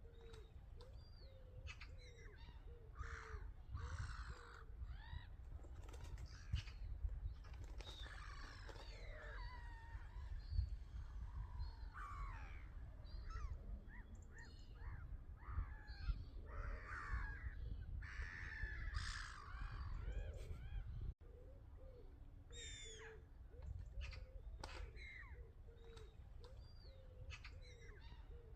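Many birds calling at once, with short overlapping calls one after another over a steady low rumble.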